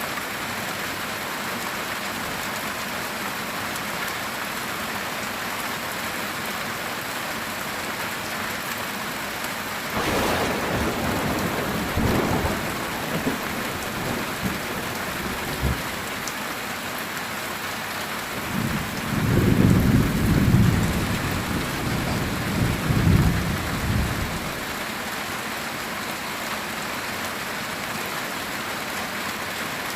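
Heavy rain falling steadily on a metal tin roof. About a third of the way in thunder breaks suddenly and rumbles for a few seconds; past the middle comes a louder, longer roll of thunder lasting about six seconds, the loudest sound here.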